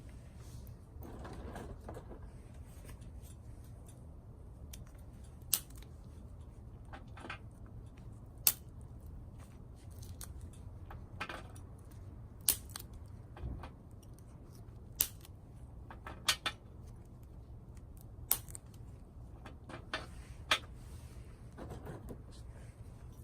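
Small twigs cracking and snapping with sharp, isolated pops every one to three seconds, over a steady low rumble.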